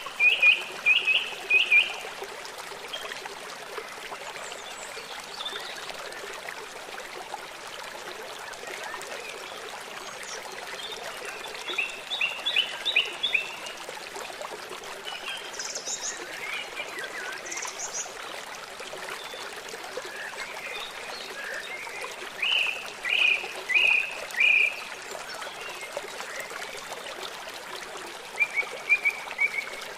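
Stream running steadily, with birds singing over it in short runs of quick repeated high chirps: at the start, about twelve seconds in, in the second half, and again near the end.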